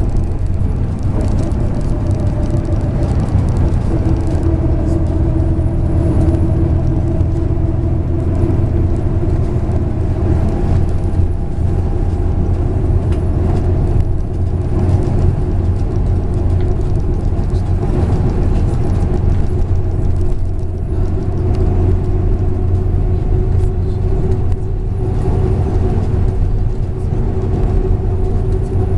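MAZ 103.562 bus's diesel engine running steadily while the bus drives, a constant low hum with a steady pitch.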